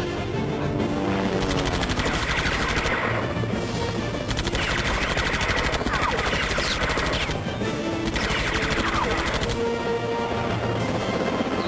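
Rapid machine-gun fire in about four long bursts, over music.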